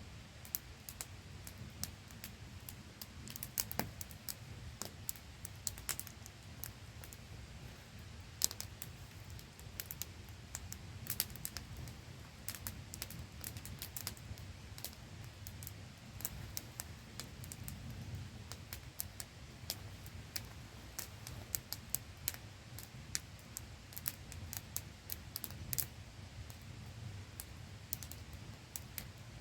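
Wood campfire crackling with sharp, irregular pops and snaps over the steady hiss and low rumble of a small waterfall.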